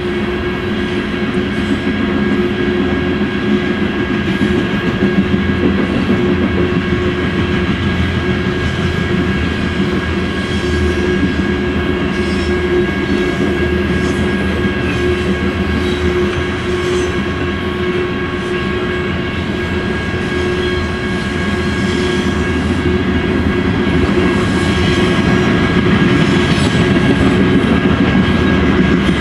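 BNSF coal train cars rolling steadily past, their steel wheels clattering over the rail joints with a continuous heavy rumble. A steady ringing tone runs alongside.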